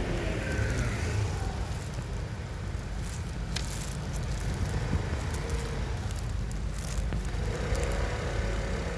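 Steady low mechanical rumble with a faint hum and a few light clicks.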